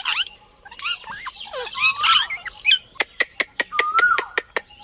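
Pet parrot chattering: short chirps and squawks that sweep up and down in pitch. From about three seconds in, a quick run of sharp clicks, about five a second, with a rising and falling whistle over them.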